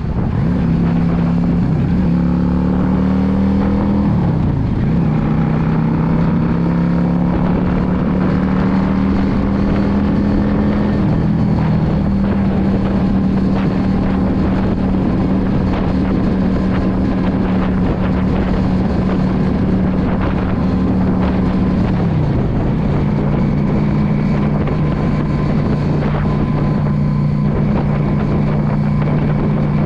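Yamaha V Star 650's V-twin engine on the move: it climbs in revs and drops sharply about four seconds in as it shifts up, then holds a steady cruising note. A little past two-thirds of the way through the note drops to a lower steady pitch, with wind rushing over the microphone throughout.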